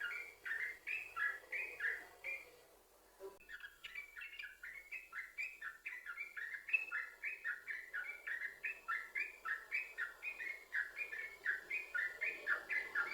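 Yellow-vented bulbul song in fast chattering runs of quick repeated notes, several a second. It breaks off for about a second near three seconds in, then resumes in a denser, continuous run, the 'sambung ropel' singing used as a lure to set other bulbuls singing.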